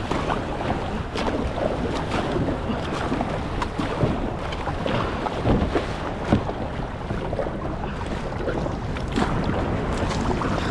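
Wind buffeting the microphone over the wash of sea water around a kayak, with scattered small knocks and splashes.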